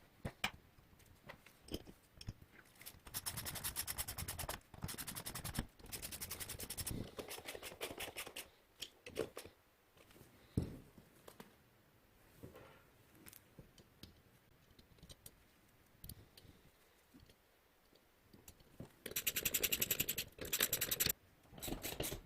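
Repeated bursts of rasping, scraping strokes, each lasting a second or two, with scattered knocks in between.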